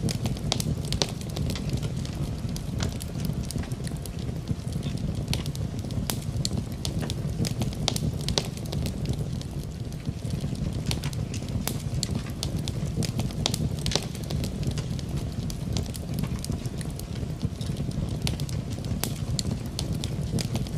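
Wood fire burning in a fireplace, crackling with frequent sharp pops and snaps scattered irregularly over a steady low rumble.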